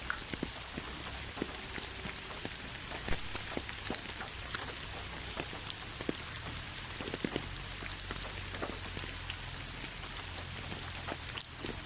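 Steady rain falling, with a hiss and many scattered individual drops ticking sharply on a surface.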